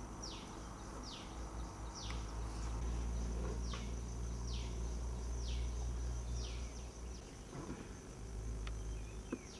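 A bird repeats a short downward-sliding call about once a second, over the steady high drone of insects. A low rumble swells through the middle.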